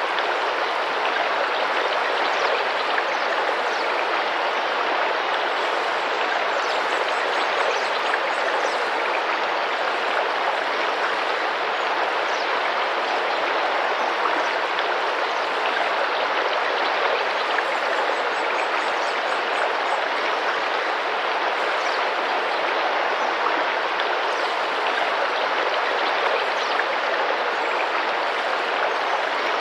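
Tropical river water flowing and splashing steadily, an even rushing babble with no pauses.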